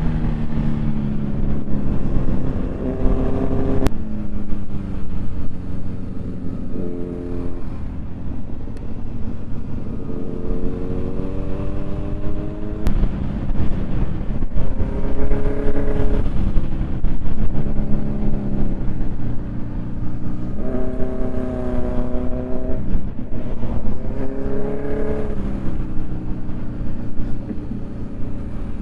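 Motorcycle engine accelerating through the gears, its pitch climbing and then dropping at each upshift, several times over. Under it runs a heavy rumble of wind on the microphone.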